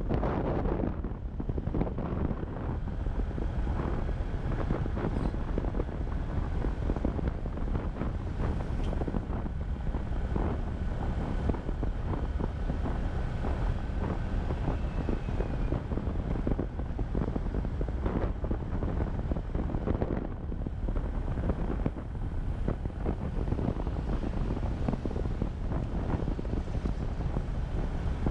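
Steady wind rushing over the microphone of a camera riding on a moving motorcycle, with the motorcycle's engine running underneath.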